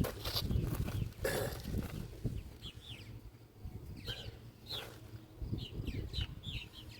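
Birds chirping: a series of short, high, falling notes, several in quick succession in the second half. Under them a low rumble of handling noise, with a brief scuffing burst about a second in.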